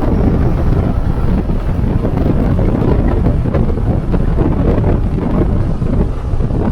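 Wind buffeting the microphone of a moving motorcycle, a loud, steady low rumble.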